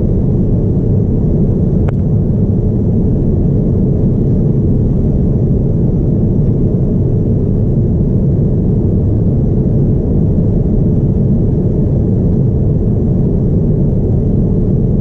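Steady low rumble of a Boeing 787-9 Dreamliner's cabin in flight, with engine and airflow noise. There is a faint click about two seconds in.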